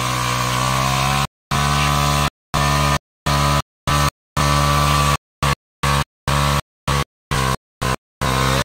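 Yamaha sport motorcycle engine held at high, steady revs while the rear tyre spins in a burnout. The sound is chopped into pieces by dead-silent gaps, the pieces getting shorter and the cuts coming faster toward the end.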